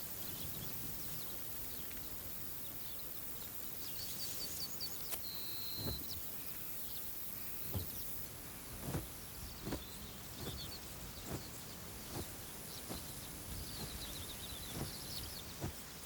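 Countryside ambience: a steady outdoor hiss with small birds chirping in short high trills, and from about six seconds in a scattering of irregular soft knocks, the loudest sounds present.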